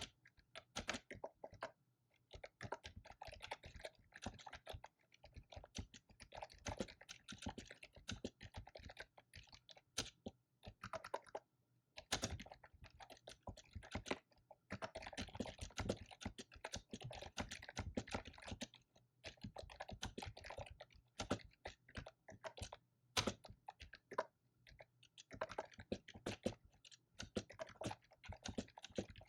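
Fast typing on a computer keyboard: rapid runs of key clicks broken by short pauses, with a few louder key strikes, such as the space bar.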